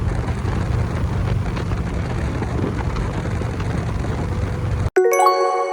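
Motorcycle on the move: a steady, heavy rumble of engine and wind noise. About five seconds in it cuts off abruptly and chiming music with long ringing tones starts.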